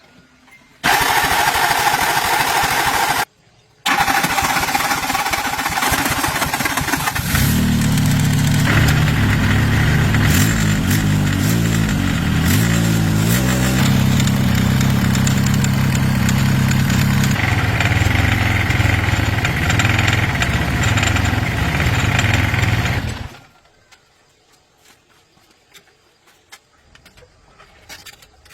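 Engine of a restored farm machine that had sat abandoned for years, being started: a noisy cranking start with a brief break, then the engine catches about seven seconds in and runs steadily with a low, even note, before cutting off abruptly about 23 seconds in.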